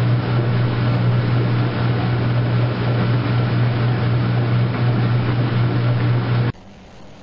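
Washing machine running: a steady low motor hum under a broad rushing noise, cutting off abruptly about six and a half seconds in.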